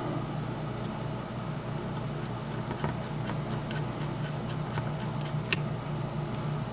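Steady low background hum with scattered small clicks and taps from small parts and tools being handled, and one sharper click about five and a half seconds in.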